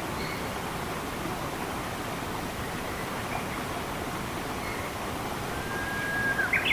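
Steady rush of running water in a forest, with faint bird calls over it. Near the end a bird gives a long even whistle, then a louder short call.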